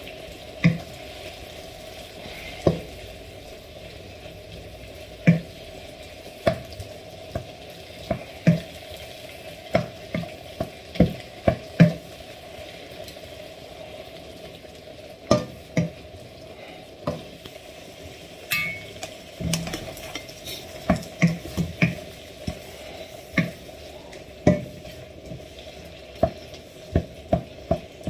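Diced chicken sizzling in a hot frying pan as it is sealed, with a wooden spoon stirring it and knocking against the pan at irregular intervals.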